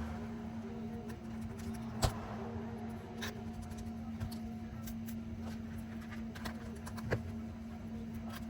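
A few sharp clicks and taps from small repair tools working on a MacBook Air during a battery replacement, over a steady low hum and faint background music.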